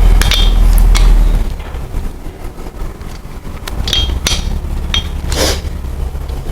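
Metal hand tools clinking on the main bearing cap bolts of a Chevy 350 block as the bolts are run down, a handful of short ringing clinks, over a steady low hum.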